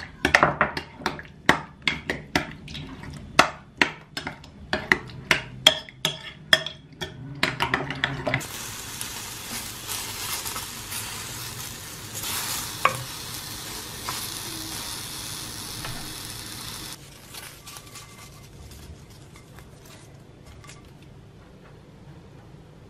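A utensil stirring in a bowl or pan, making sharp clicking knocks two or three times a second for about eight seconds. Then food sizzles steadily as it fries in a pan; the sizzle starts and stops abruptly about nine seconds later. A few faint clicks follow.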